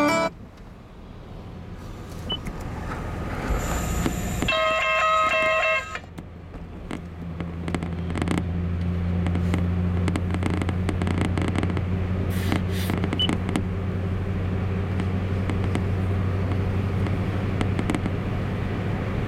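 A car driving along a highway, with a steady low engine and road hum that builds over the first several seconds and then holds. A short pitched sound comes about five seconds in.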